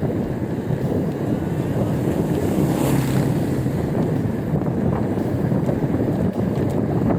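Wind buffeting the microphone while riding an e-bike, a steady low rumble.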